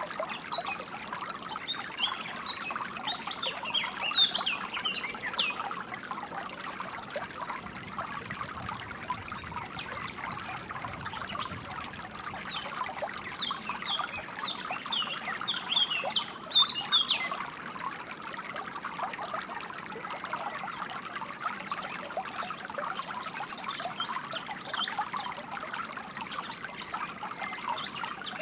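Water trickling and splashing steadily over stones, with songbirds chirping above it in several short bursts of quick high notes.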